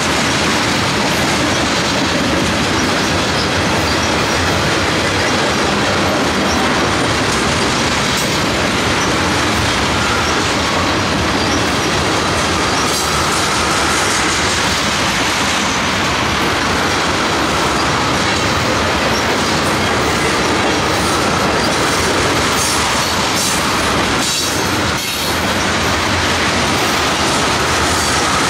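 Freight train of ethanol tank cars rolling past: steady noise of steel wheels on the rails. A faint wavering whine runs through the middle, and a few sharp knocks come near the end.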